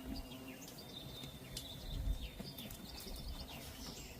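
Birds chirping: many quick falling chirps and a thin, steady high note, over a faint low rumble that swells briefly about two seconds in.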